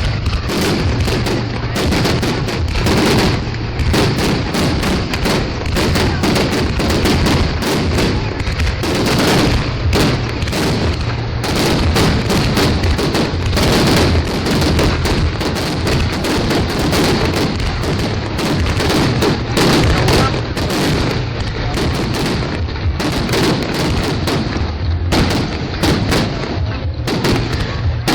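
Fireworks display: a dense, unbroken barrage of bangs and booms from aerial shells, one burst overlapping the next.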